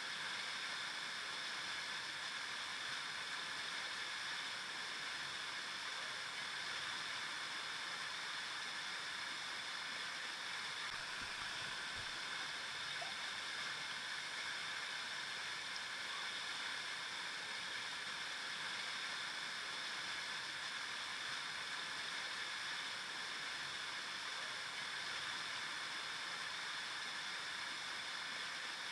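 A river flowing over rocks: a steady, even rush and babble of water with no pauses.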